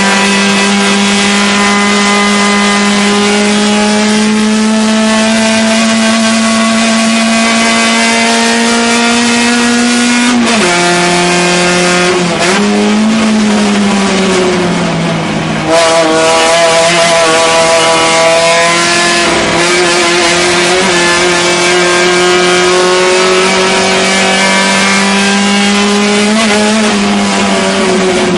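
A Fiat 128's 1100 cc four-cylinder race engine heard from inside the cockpit, held at high revs and climbing slowly. The revs drop sharply about ten seconds in, waver and dip for a few seconds, jump back up, climb again and drop once more near the end.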